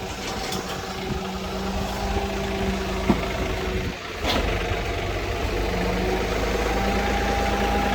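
Diesel engine idling steadily, with a single sharp click about three seconds in.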